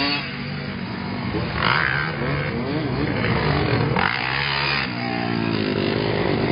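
Motocross dirt bike engines revving, their pitch rising and falling as the bikes accelerate and back off.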